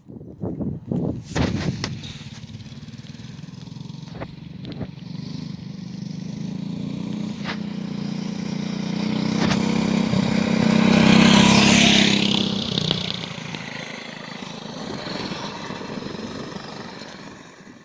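Minibike engine running, getting louder to a peak about two-thirds of the way through and then fading away. A few sharp knocks sound near the start.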